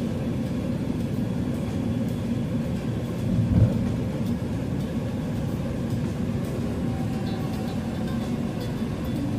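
Steady low road rumble of a moving vehicle, with a brief louder bump about three and a half seconds in.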